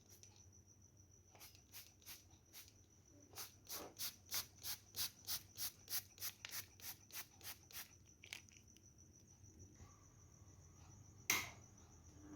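Faint clicking: a few scattered clicks, then a run of evenly spaced clicks about three or four a second, and one sharper click near the end, over a faint steady high-pitched tone.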